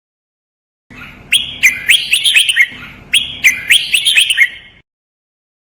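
Red-whiskered bulbul singing a short, loud phrase of clear whistled notes, then repeating the same phrase straight away. This is the doubled training song used to teach caged bulbuls.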